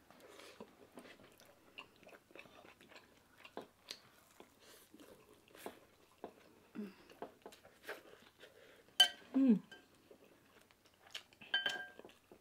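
Close-up chewing, wet lip-smacking and sucking from people eating fried tilapia with their fingers, picking the meat off the bones, as a run of small irregular mouth clicks. A brief hum with a falling pitch comes about nine seconds in, and a short ringing clink comes near the end.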